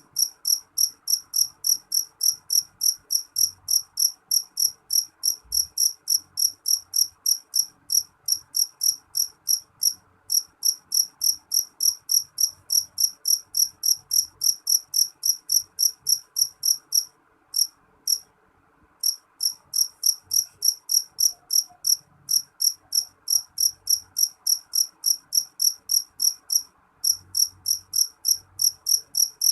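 A cricket chirping steadily, short high-pitched chirps about three a second, breaking off for about a second roughly two-thirds of the way through, then resuming.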